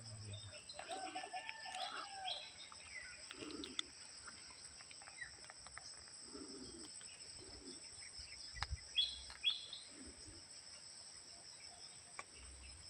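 Outdoor field ambience: scattered bird chirps and calls over a steady, high-pitched insect drone from crickets.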